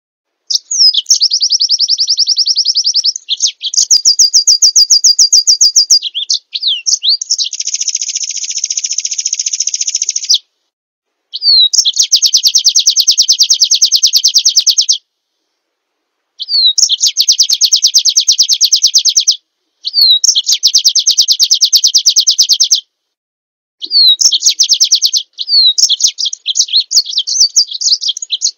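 Small songbird song: a string of very fast, high trills, about seven bursts of two to four seconds each, most opening with a short downward slur and broken by brief silences.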